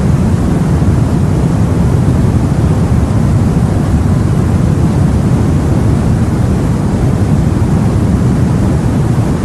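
Steady, low rumbling sea ambience of wind and water, as if heard aboard a boat, with no separate splashes or other distinct events.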